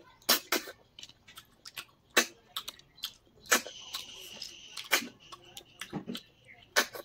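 Close-up eating sounds: irregular clicks and smacks of chewing and mouth movements, a few every second.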